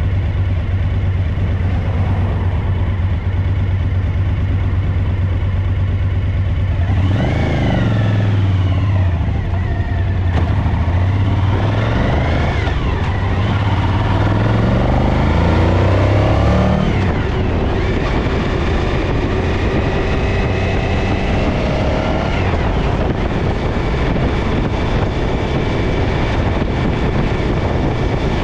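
Suzuki DL1000 V-Strom's V-twin engine idling, then revved up and back down three times from about seven seconds in, then running steadily at a higher speed. The bike has a misfire on its rear cylinder.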